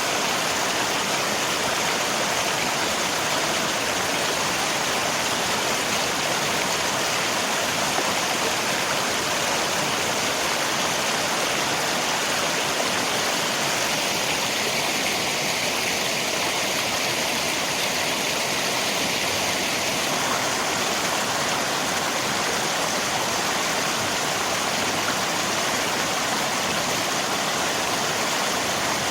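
Steady, unbroken rush of river water mixed with rain.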